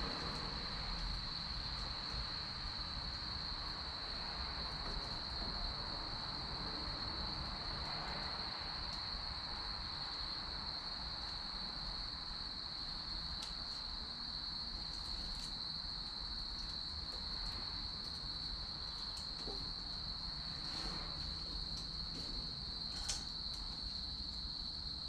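Steady high-pitched chirring of crickets over a low background hiss, with a few sharp pops from the burning firewood, the clearest near the end.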